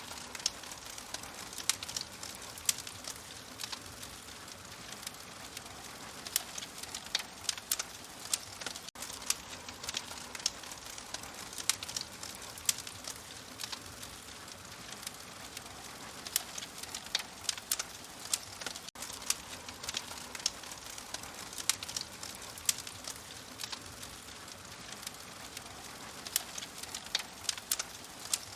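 Wood fire crackling in a fireplace: a steady hiss with frequent sharp pops and snaps.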